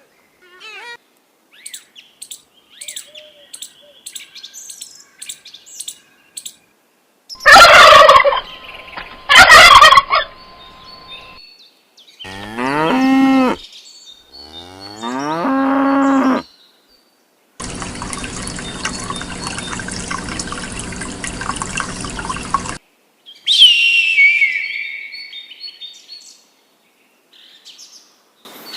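A run of farm animal calls: faint bird chirps, then two loud harsh calls, then two long low moos from cattle, a steady noisy stretch of about five seconds, and a falling whistled bird call near the end.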